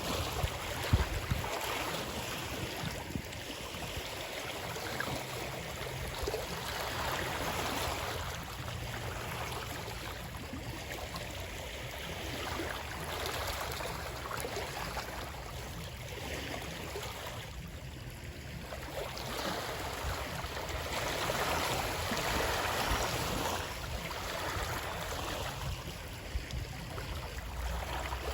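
Flowing water in a steady rushing wash that swells and eases every few seconds, with a brief low bump about a second in.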